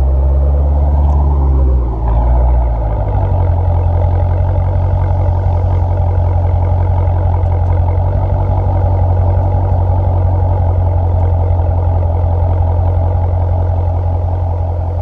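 A 2017 Dodge Challenger R/T's Hemi V8 exhaust, with the mid mufflers deleted and the resonators kept. Its engine speed shifts and drops about two to three seconds in, then it settles into a steady, deep idle.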